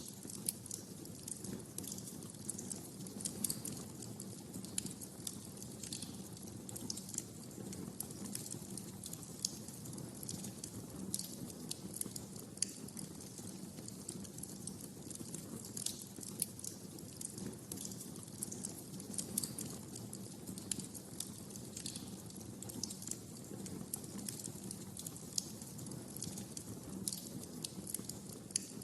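Wood fire crackling in a fireplace: irregular sharp pops and snaps over a steady low burning rumble.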